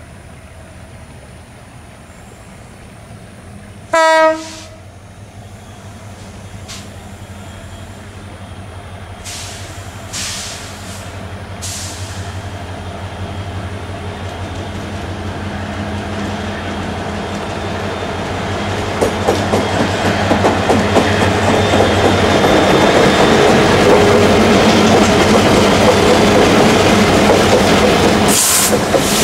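Two CC205 diesel-electric locomotives hauling a long coal train approach and pass close by. A short horn blast sounds about four seconds in, then the engines' low drone builds, and from about two-thirds through the loud rumble and clickety-clack of the coal wagons rolling past takes over.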